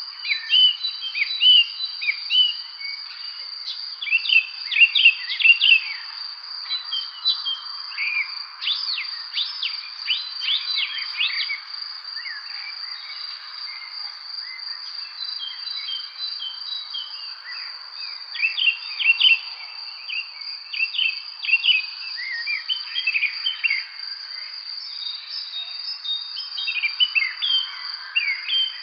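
Birds chirping and singing in quick clusters of short notes, busiest around the middle and again near the end, over a continuous high-pitched insect trill.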